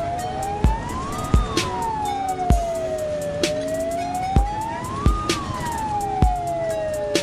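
A siren wailing, rising and falling slowly about once every four seconds, over music with deep bass-drum hits.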